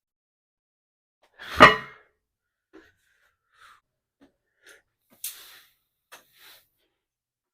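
A man's loud, sharp voiced exhale about one and a half seconds in, the out-of-breath sound of recovering from a heavy set of squats. A few faint breaths and small clicks follow.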